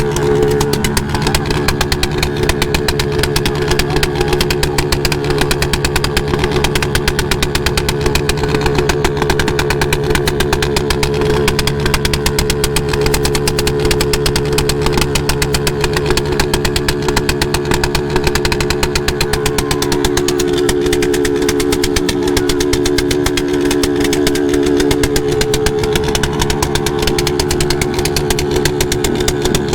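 Motorcycle engine running steadily and loud, close up, with a fast even firing beat; its pitch shifts slightly about twenty seconds in.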